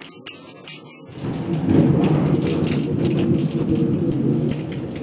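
Close thunder with heavy rain: a loud rumble comes in abruptly about a second in, is loudest near two seconds and slowly fades, over steady rain hiss. It follows a second of background music that cuts off.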